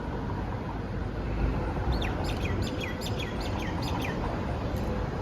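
A bird calling in a quick series of about seven short chirps, each sliding downward in pitch, over a steady low street rumble.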